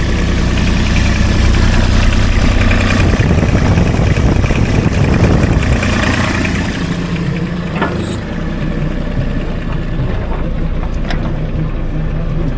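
Tractor engine running close by, its speed changing about three seconds in before it settles back to a steady idle.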